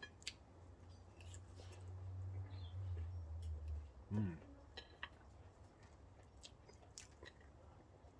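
Faint sounds of a person eating: soft chewing and small, scattered mouth clicks, with a brief 'mm' about four seconds in.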